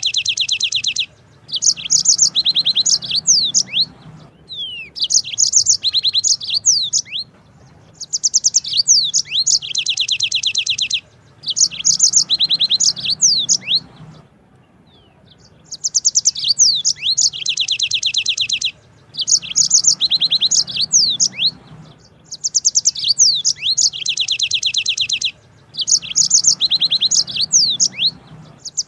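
Yellow-fronted canary (Mozambique canary) singing: loud song phrases of a few seconds each, built from long fast trilled rolls and quick sweeping high notes, repeated over and over with short pauses between.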